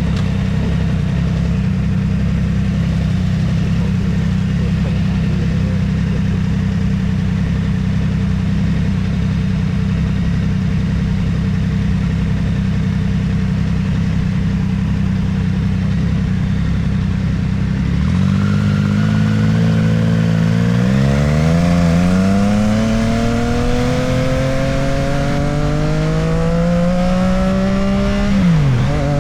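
Motorcycle engine holding a steady low note, then accelerating from about two-thirds of the way in with a rising pitch. The pitch drops briefly at a gear change near the end and climbs again.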